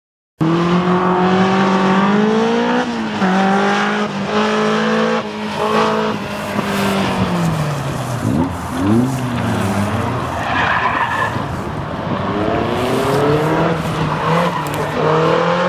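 Super Seven sports car's engine revving hard, its pitch climbing and stepping down with gear changes over the first several seconds. About eight seconds in the revs fall away with a few quick throttle blips, a brief tyre squeal follows about ten seconds in, and the engine climbs again near the end.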